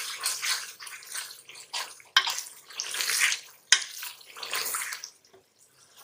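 Spoon stirring beef karahi as it is fried down in an aluminium pressure-cooker pot: bursts of sizzling from the hot oil and meat that rise and fall with each stir, with sharp clinks of the spoon against the pot about two and three and a half seconds in. It goes quieter near the end.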